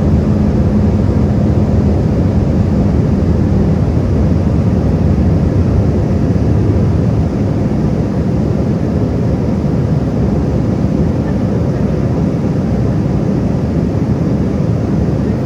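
Airliner cabin noise during the approach to landing: a steady rumble of engines and airflow. A hum fades in the first few seconds, and the level eases slightly about halfway through.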